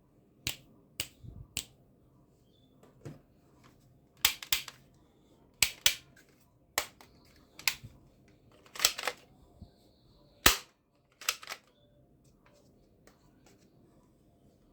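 Toy guns firing or snapping: about a dozen sharp cracks and clicks at uneven intervals, several in quick pairs, stopping about three-quarters of the way through.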